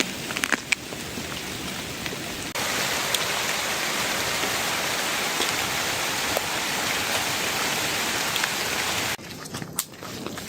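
Heavy rain falling in a steady, dense hiss, with a few sharp drips or knocks in the first second. The rain suddenly gets louder a couple of seconds in, then drops away abruptly near the end, leaving quieter rain and scattered knocks.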